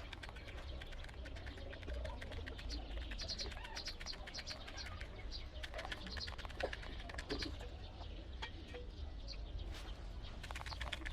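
Young chicks peeping in short, high chirps that come in little clusters, among many small clicks and scratches, over a steady low rumble.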